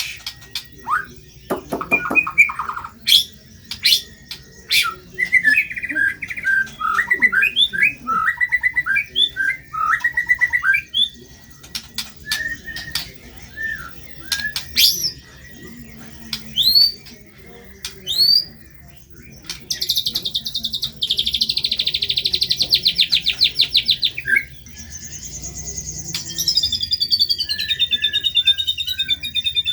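White-rumped shama (murai batu) singing a loud, varied song of sharp whistles, gliding notes and chattering phrases, with a fast buzzy rattle a little past the middle and a falling run of notes near the end.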